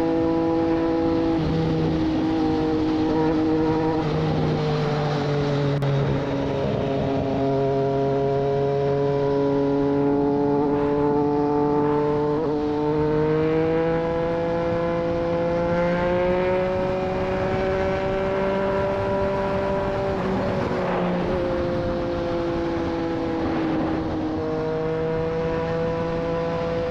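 Triumph Street Triple 765 RS inline three-cylinder engine running through a Racefit Growler full exhaust at a steady cruise. Its pitch sinks and climbs slowly as the throttle and road speed change, with small steps down about a second in and later, and a step up near the end.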